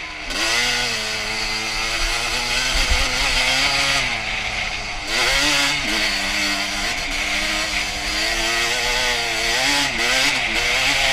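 2001 Honda CR250's single-cylinder two-stroke engine running hard while riding, its pitch climbing and falling with the throttle. The pitch drops sharply about five seconds in and again about ten seconds in.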